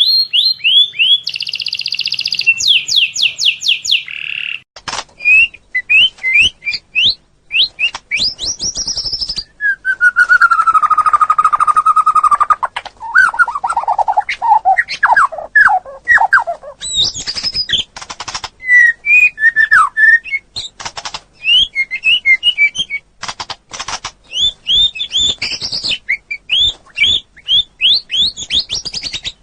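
Songbird song: a dense run of rapid trills, chirps and whistled sweeping notes. From about ten seconds in there is a lower, slurred whistling phrase that falls in pitch.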